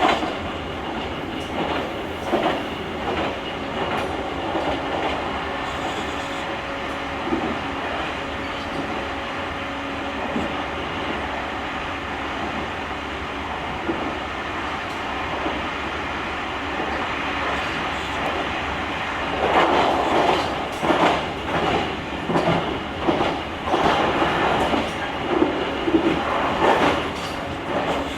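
JR Kyushu 883 series electric train running at speed, heard from inside the car's vestibule deck: a steady running hum with wheel rumble and the rhythmic clack of wheels over rail joints. About two-thirds of the way in, the clatter grows louder and comes in quick uneven runs.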